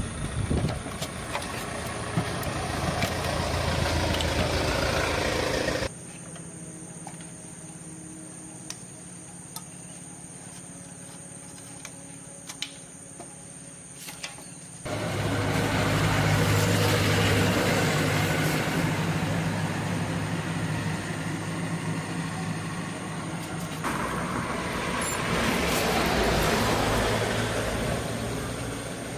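Motorcycle engine running, heard in separately edited shots: a steady engine hum, with a much quieter stretch in the middle.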